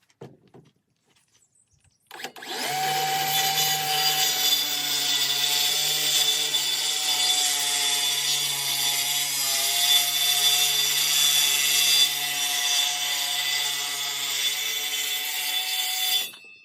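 Electric power saw starting up about two seconds in and cutting through a piece of wood for roughly fourteen seconds, a steady motor whine under the cutting noise, then stopping just before the end.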